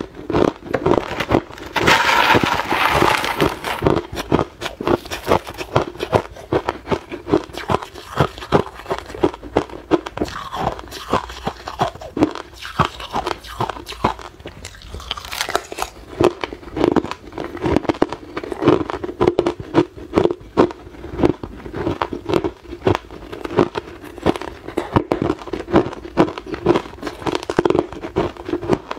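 Hard, clear ice being bitten and chewed close to the microphone: a continuous run of sharp crunches and cracks as the ice breaks between the teeth.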